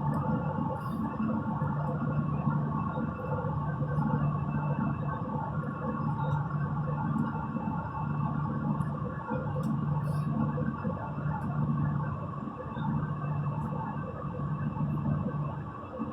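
Steady drone of an Airbus A320 in flight heard from inside the cabin: engine and airflow noise with a low hum that swells and eases every couple of seconds.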